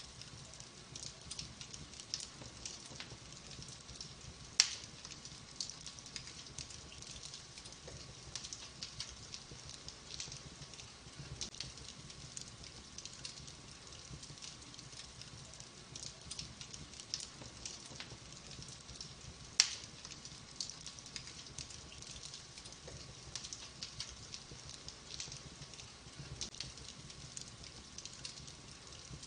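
Wood fire burning in a fireplace: steady soft crackling with many small ticks, and two loud sharp pops, one about a quarter of the way in and one about two-thirds of the way in.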